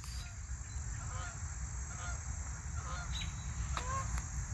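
Geese honking, a string of short calls repeated every half second or so, over a steady high-pitched drone of insects.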